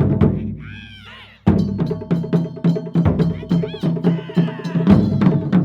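Japanese taiko drum ensemble: a heavy drum strike rings and dies away, then about a second and a half in fast, driving drumming starts with many quick, sharp hits.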